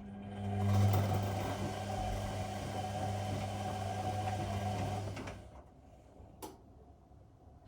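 Whirlpool washing machine running for about five seconds with a steady hum and hiss, then stopping, with a single click about a second later.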